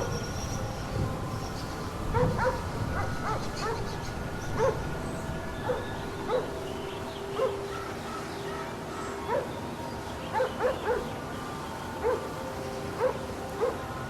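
Dog barking and yipping, a dozen or so short sharp calls spaced a second or so apart, over a steady droning hum.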